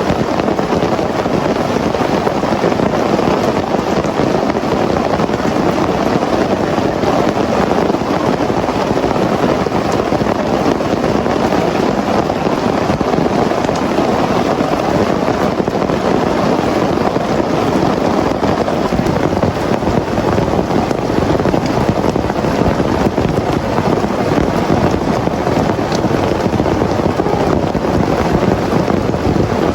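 Heavy rain pouring steadily in a dense, even downpour.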